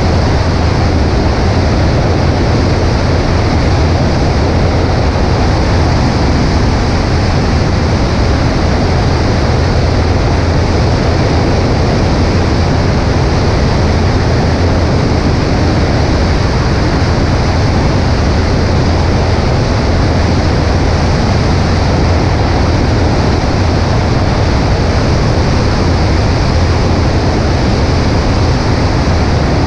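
Cessna 140A's engine running steadily under heavy wind rush on a wing-mounted microphone: an even drone with a deep low hum.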